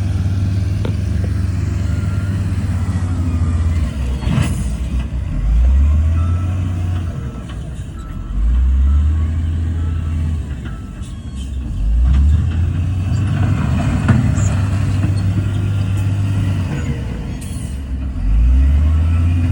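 Heavy diesel engines of earthmoving machinery running and revving up and easing off again about four times, each rev a rising low rumble.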